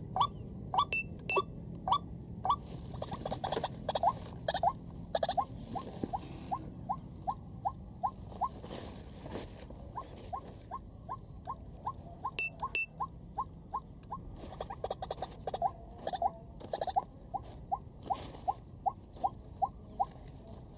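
White-breasted waterhen call: short notes repeated over and over at about two a second. A steady high insect hum runs underneath, and two sharp clicks come about twelve seconds in.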